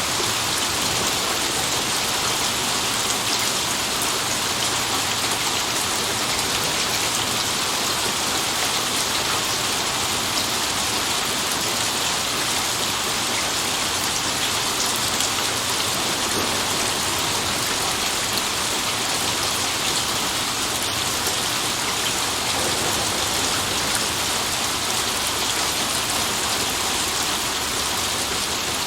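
Steady heavy rain, a dense even hiss of drops with fine pattering on a surface, and no distinct thunder.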